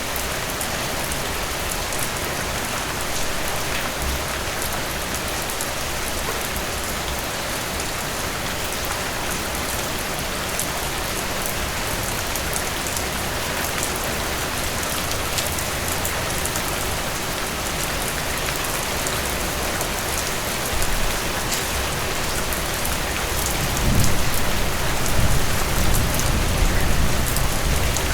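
Heavy rain falling steadily, an even hiss. In the last few seconds a low rumble of thunder rolls in under it.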